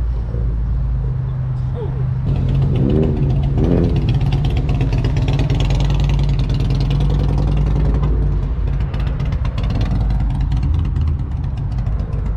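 Car engine running steadily close by, with a deep low exhaust note that grows louder about two seconds in.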